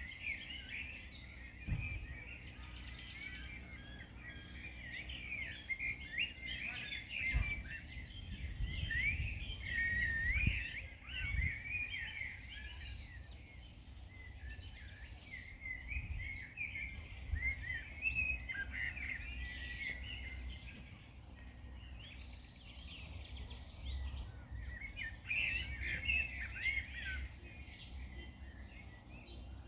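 Songbirds chirping and singing in dense, overlapping phrases, over a steady low rumble of wind with a few stronger gusts.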